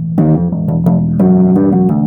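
Bass guitar played in a run of plucked notes, some short and some held, each with a sharp attack.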